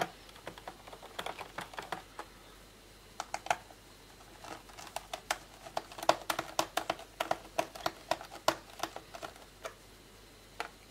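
Screwdriver loosening and taking out the small screws of a laptop's plastic bottom cover door: a run of quick, irregular small clicks and ticks, thickest in the middle seconds.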